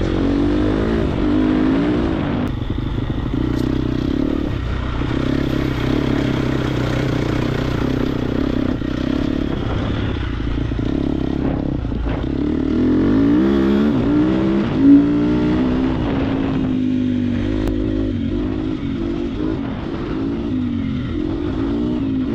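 Triumph TF250X's 249cc single-cylinder four-stroke engine being ridden hard, its pitch rising and falling as the rider works the throttle and gears, with a sharp climb in revs a little past halfway. Heard through a helmet-mounted intercom microphone, so the engine comes through with wind rush.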